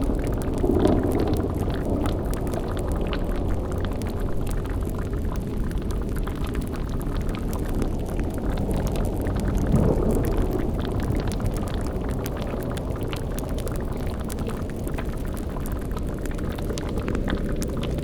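Sound-designed dark ambience: a steady low rumble under a continuous bubbling crackle of a boiling cauldron, swelling briefly about a second in and again near ten seconds.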